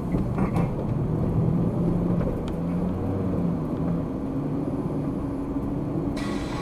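Car engine and road noise heard from inside the cabin while driving, a low drone whose pitch shifts a little with the engine.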